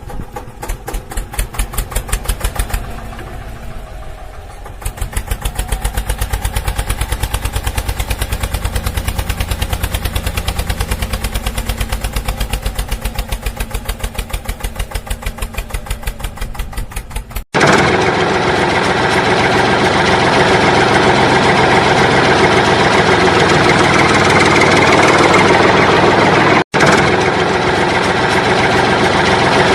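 A vehicle engine idling with an even, rhythmic pulse. About two thirds of the way through it cuts off abruptly and a louder, noisier engine sound takes over, broken by a brief gap near the end.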